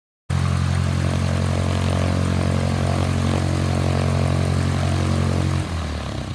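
Aircraft engine running steadily at high power: a loud, even hum of several steady low tones over a wide hiss that cuts in suddenly. About five and a half seconds in, the low tones drop away and the sound starts to fade.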